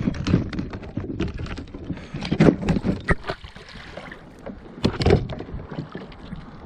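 Irregular knocks, bumps and scraping against a kayak while a hooked muskie is being fought, with louder thumps about two and a half and five seconds in.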